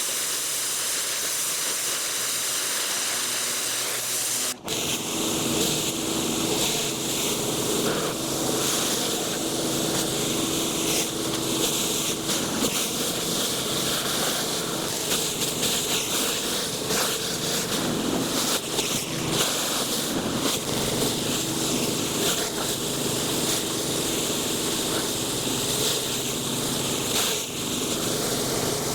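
Gas-engine pressure washer running, its high-pressure water spray hissing steadily. After a sudden break about five seconds in, the engine's steady hum is heard under the spray.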